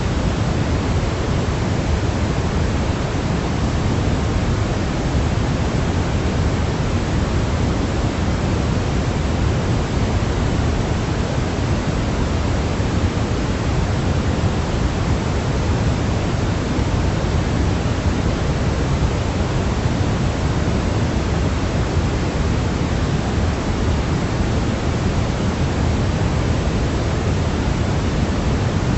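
Steady generated sleep noise for a baby: an even, unbroken hiss that never changes, heavier in the low end than the highs.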